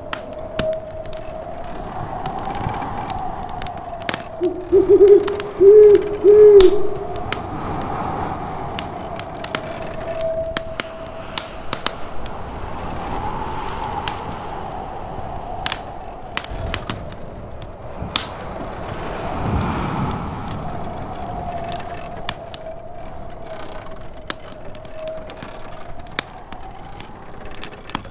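A wood fire in a fireplace crackling with sharp pops, under the howl of snowstorm wind that rises and falls. About five seconds in comes a loud hooting call in three notes, and near twenty seconds a low rumble of distant thunder.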